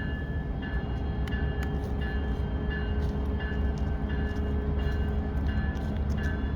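Railroad grade-crossing warning bell ringing in a steady repeating rhythm, about three strikes every two seconds, over a low steady rumble.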